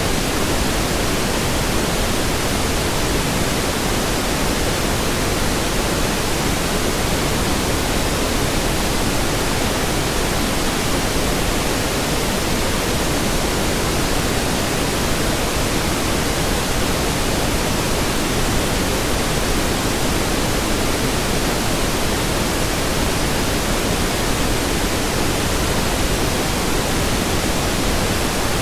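Steady pink noise: an even, unbroken hiss with more weight in the low end than white noise, holding a constant level throughout.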